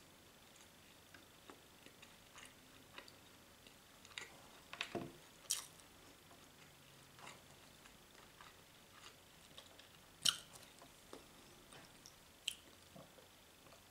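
A person chewing canned ham with the mouth closed: faint, scattered wet clicks and smacks, with a few louder ones about five seconds in and about ten seconds in.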